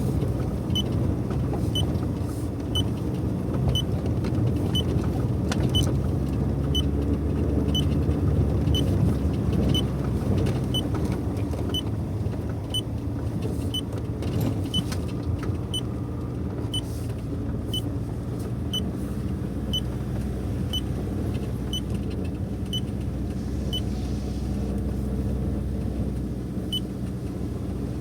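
Car engine running with a steady low drone, and a light tick repeating about every two-thirds of a second that stops near the end.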